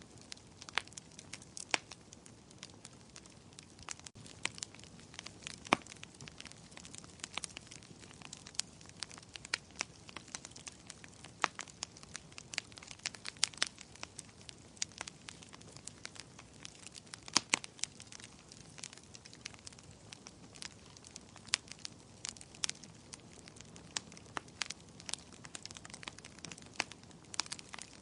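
Wood fire crackling in a fireplace: frequent sharp, irregular pops and snaps over a soft steady hiss.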